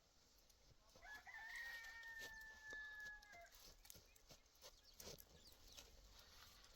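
A rooster crowing once: a single long, faint call of about two and a half seconds that drops slightly in pitch at the end.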